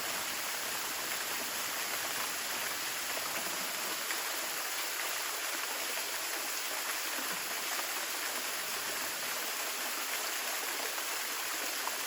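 Waterfall about five metres high, falling water rushing steadily as an even, unbroken hiss.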